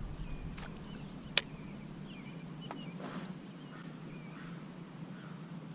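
Faint, short bird chirps over a low steady hum, with one sharp click about one and a half seconds in.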